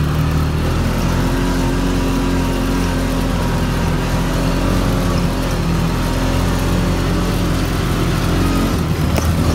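CFMOTO's engine running at a steady pace while riding, with a wide rumble of noise over it. There is a single brief click near the end.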